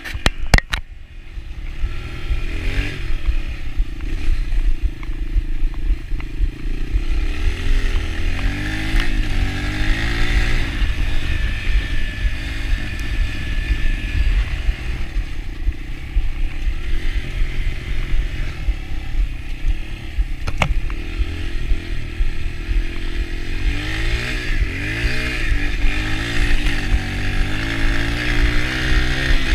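Yamaha TT-R125 dirt bike's single-cylinder four-stroke engine running under way, its revs rising and falling again and again with the throttle. A few sharp knocks sound in the first second.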